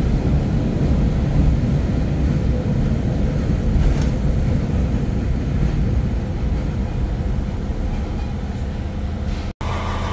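Train running: a steady low rumble, broken by a brief dropout near the end.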